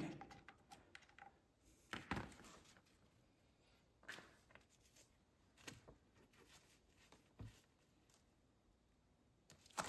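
Near silence, broken by four faint, short knocks spread a second or two apart.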